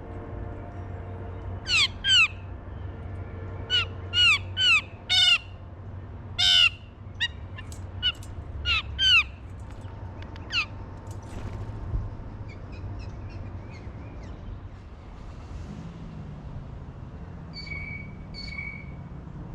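A corvid at a peanut feeder giving loud, harsh calls: about a dozen in pairs and short runs over the first eleven seconds. Two short, higher calls follow near the end.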